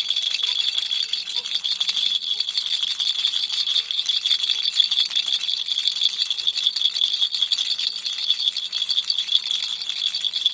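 A baby's toy rattle shaken continuously, a dense, even stream of rapid high-pitched clicks with no pause.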